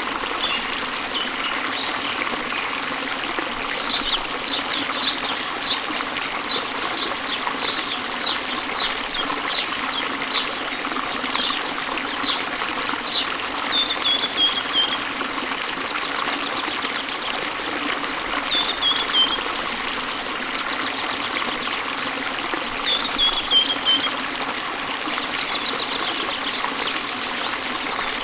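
Waterfall water running steadily, with a songbird singing over it: a run of short high chirps, then brief falling trills three times.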